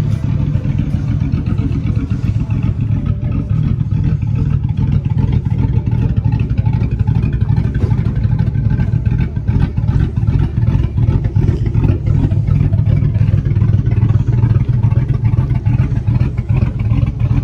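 Truck engine with a freshly installed camshaft running steadily at idle, with a clicking from a lifter that the crew takes for a bad one.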